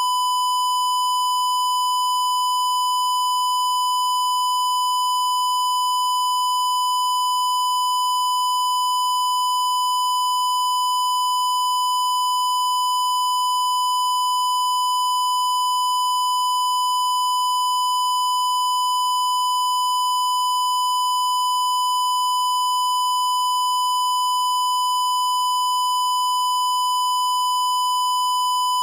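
A single continuous high-pitched electronic beep tone, held at one pitch and level without a break, slightly buzzy from its overtones.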